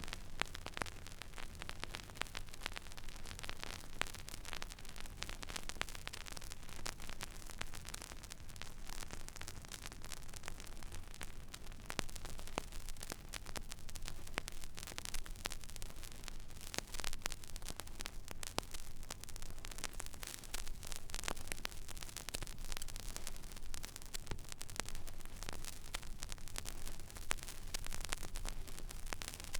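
Stylus riding an empty groove of a vinyl record: steady surface hiss with frequent small crackles and pops, over a low hum.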